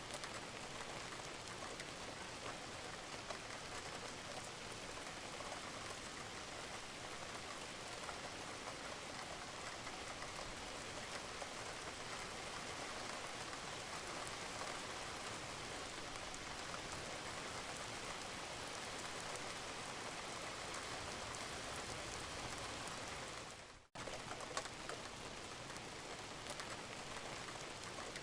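Steady rain falling on a roof, with scattered drips. The sound cuts out for a split second near the end, then resumes.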